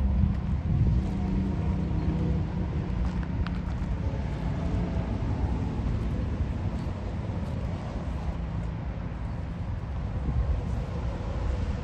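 Motor vehicle running steadily: engine hum under road noise.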